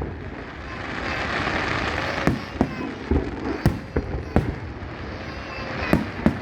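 Aerial fireworks: a hissing, crackling swell about a second in, then sharp shell bursts about once a second, each with a short echo.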